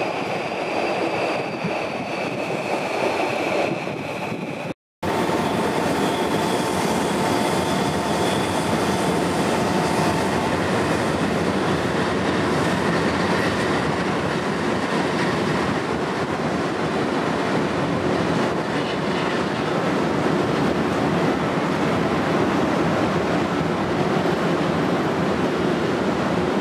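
Electric commuter trains running on the tracks: a steady rumble of wheels on rail. For the first four seconds a thin high tone rides over it. The sound cuts out for an instant about five seconds in, then the rumble carries on.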